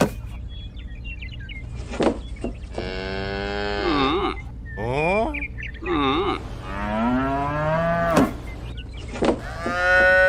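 Cattle mooing: several drawn-out moos one after another, the loudest near the end. A few sharp clicks and a steady low hum run underneath.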